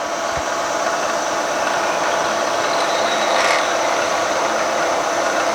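Milling machine spindle running with a drill bit cutting into a flame-hardened steel crankshaft, a steady grinding hum with a constant whining tone.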